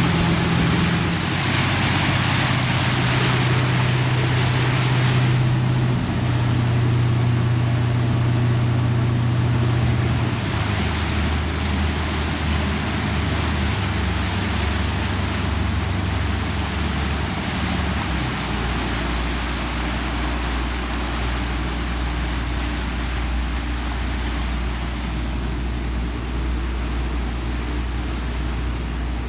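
A boat's engine running under way, with rushing wind and water noise. The engine's pitch drops in two steps, about ten seconds in and again near the middle, as the boat slows.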